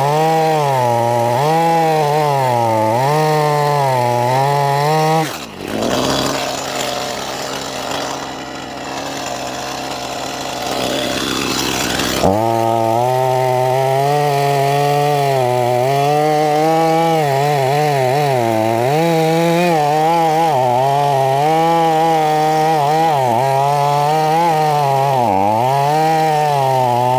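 Stihl chainsaw running at high speed and cutting wood, its pitch dipping and rising as the chain loads in the cut. For several seconds near the middle the steady engine note gives way to a rougher, noisier sound before it comes back.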